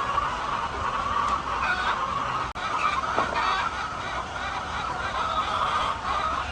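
A large flock of chickens clucking and calling all at once in a dense, steady din.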